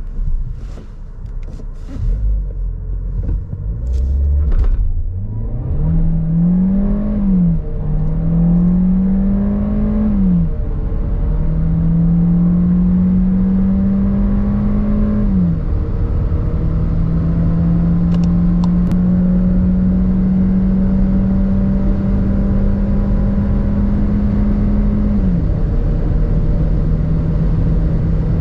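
Seat Ateca FR's 1.5 TSI four-cylinder turbo petrol engine accelerating hard, the revs climbing in each gear and dropping sharply at four quick DSG upshifts, each gear held longer than the last. A few sharp clicks come in the first seconds, before the engine note starts to climb.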